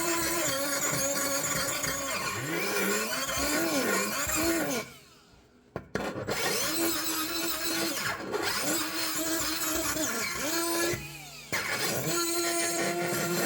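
Small high-speed rotary tool with a carbide burr grinding metal. Its motor whine dips and wavers in pitch as the bit bites in, and it stops briefly twice, about five seconds in and again near eleven seconds.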